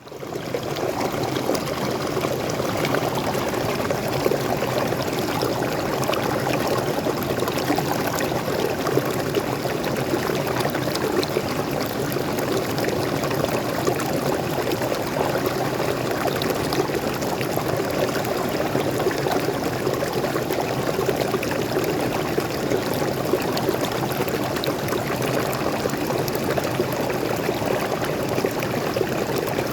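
Small waterfall and stream water splashing and flowing steadily, a dense rushing that fades in over the first second.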